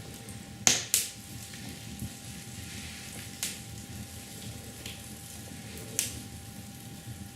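A few sharp clicks over a low steady background noise: two loud ones close together about a second in, then single fainter ones about halfway through and near the end.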